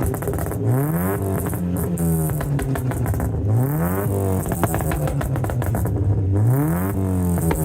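A car engine revved repeatedly, its pitch climbing and dropping back about every two and a half to three seconds, with sharp crackles on top.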